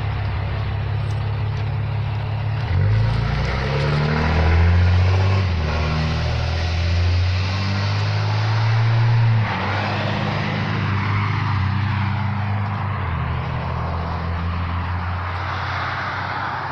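Tow truck engine running, then revving up about three seconds in and holding a higher pitch for several seconds, as when a truck pulls away. It eases back about halfway through and runs on steadily.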